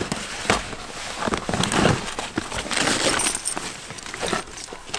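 Rummaging through camping gear: metal items clink and jangle among rustling, in a quick run of short clicks.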